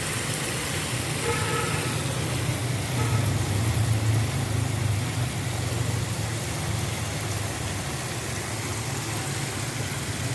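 A motor running steadily: a low, even drone under a haze of noise.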